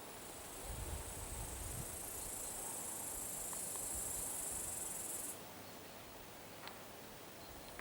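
An insect, most like a cricket or bush-cricket, stridulating in a steady, very high-pitched buzz that stops suddenly about five seconds in.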